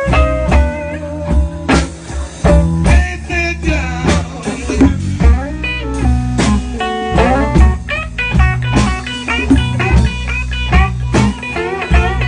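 Live band playing a slow blues in B: a lead guitar plays notes that bend up and down over bass and drums.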